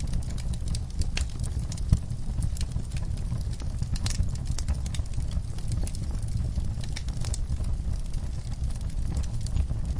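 Wood fire crackling in a fireplace: irregular sharp pops and snaps over a low, steady rumble of flames, with one louder pop about two seconds in.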